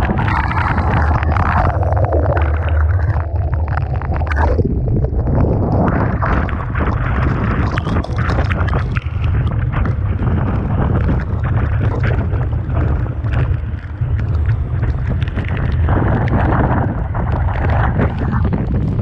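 Typhoon-force wind buffeting the microphone in a constant heavy low rumble, over the noise of a rough, storm-driven sea with waves and spray.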